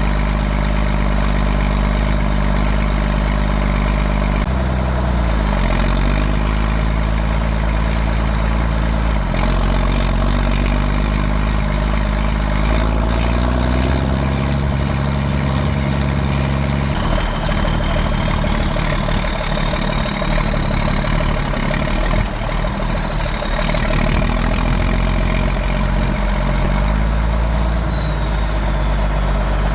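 John Deere 4630's straight-piped, turbocharged six-cylinder diesel running at idle, its engine speed shifting a few times, with a faint high whine rising and falling in the second half.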